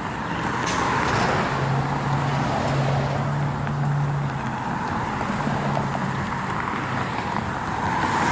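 Road traffic: cars passing on a street, with steady tyre noise swelling about a second in and again near the end, and a low engine hum from a passing vehicle in between.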